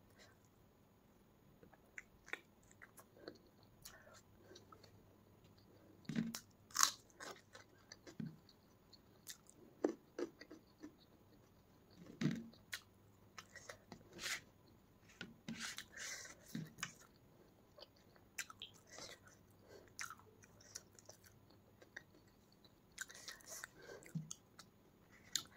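Close-miked chewing of a handful of rice and fried egg in daal curry eaten by hand: irregular wet mouth clicks and smacks with short pauses between them.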